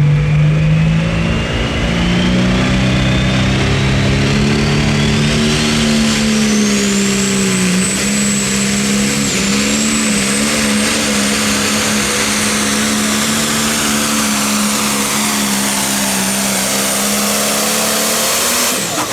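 Pro Stock pulling tractor's turbocharged diesel engine running hard through a pull, its turbo whine rising steadily to a high, held scream over the first several seconds. The engine note dips briefly twice, and the sound drops off sharply near the end.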